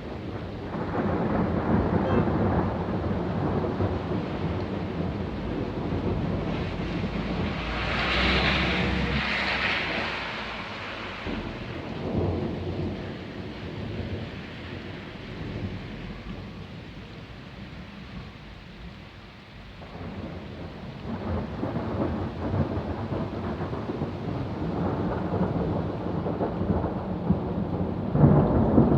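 Thunder rumbling and crackling in long rolling peals during a thunderstorm, with rain hissing underneath. It swells about a second in, dies down to a lull about two-thirds through, then rolls in again, with a sharper crack near the end.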